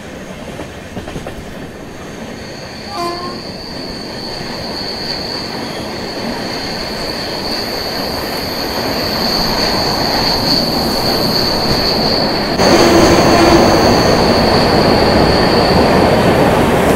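Express train running at speed, heard from on board: wheel and track rumble growing steadily louder, with a steady high-pitched wheel squeal from about two seconds in. The rumble jumps louder about thirteen seconds in.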